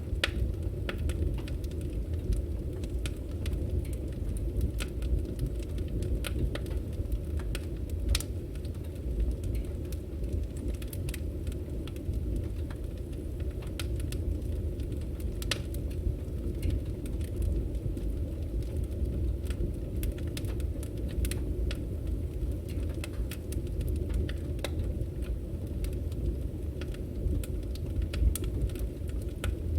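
Firewood burning in an open fire: a steady low rumble of flames with frequent irregular crackles and sharp pops.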